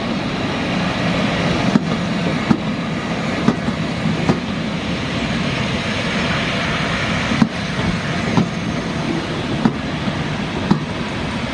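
Train running along a heritage railway line: a steady rumble, with sharp clicks roughly once a second as the wheels cross rail joints.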